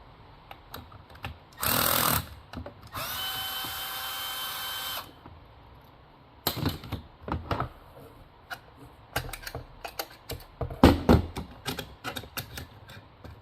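Power drill-driver backing out the bolts that hold a chainsaw's exhaust muffler: a short burst, then a steady whine for about two seconds. After that come scattered clicks and knocks of metal parts being handled.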